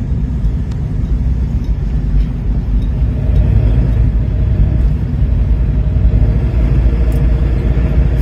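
A steady low rumble, with faint steady tones joining it about three seconds in.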